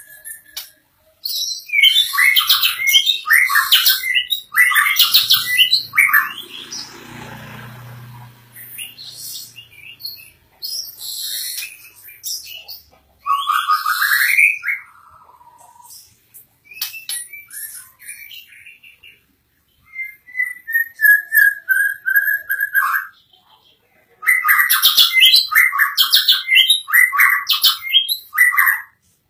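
White-rumped shama singing in loud bursts of fast, varied phrases separated by short pauses, with a quick rising whistle in the middle and a long, slowly falling whistle later on.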